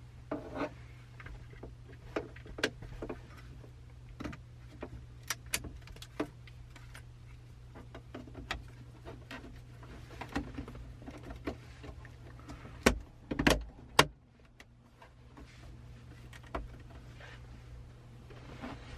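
Scattered plastic clicks and knocks from a BMW iDrive controller and its console trim being handled and fitted back into the car, with a cluster of louder knocks about two-thirds of the way through. A steady low hum runs underneath.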